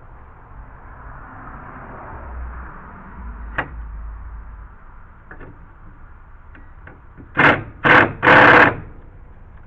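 Cordless drill/driver running in three short bursts near the end, backing out a deck screw. The battery is nearly flat.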